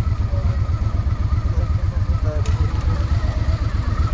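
Honda Shadow VT750's V-twin engine running steadily with an even low pulsing, with wind noise on the microphone.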